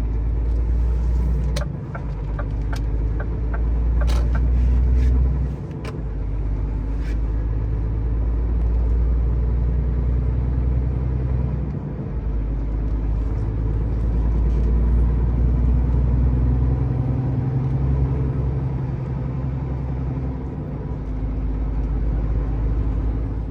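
Scania truck's diesel engine running under way, a steady low rumble whose loudness dips briefly a few times. A short run of light ticks sounds a couple of seconds in.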